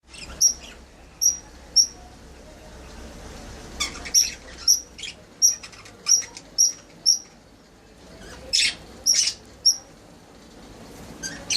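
Small pet parrots chirping: a string of short, sharp, high-pitched chirps at irregular intervals, with a few longer, louder, harsher calls in between.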